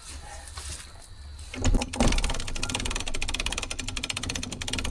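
A thump, then about two seconds in a small motor starts and runs steadily with a rapid, even rattle.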